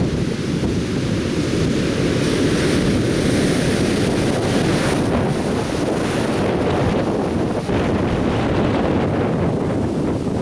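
Atlantic surf breaking and washing on the shore, a continuous rushing wash with a swell of hiss about two seconds in as a wave breaks. Wind rumbles on the microphone underneath.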